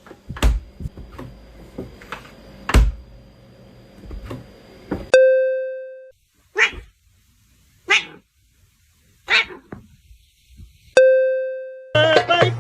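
A dog barks three times, about a second and a half apart. A ringing bell-like chime sounds just before the barks and again after them, and a few knocks and thumps come in the first seconds.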